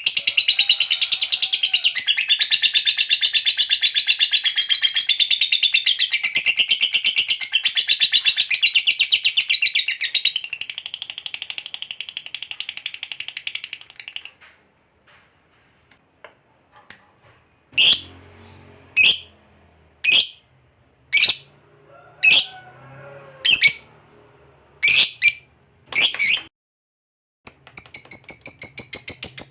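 Lovebird's long, very fast chattering trill (ngekek panjang) for about fourteen seconds. After a short pause come about nine single sharp calls, roughly one a second, and the rapid trill starts again near the end.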